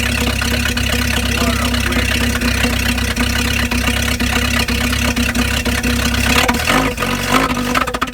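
1953 Packard straight-eight engine running steadily after a cold start. Near the end its note breaks up and it stumbles to a stop.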